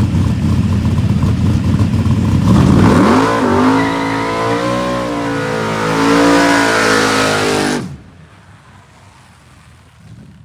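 Chevy S10 drag truck's engine running loud at the starting line, then launching about three seconds in: the revs climb and the pitch rises and dips as it pulls down the track. The sound cuts off suddenly about eight seconds in, leaving only faint background noise.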